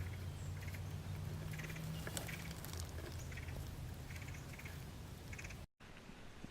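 Birds calling in a run of short, rough notes over a steady low hum. The sound cuts off abruptly near the end.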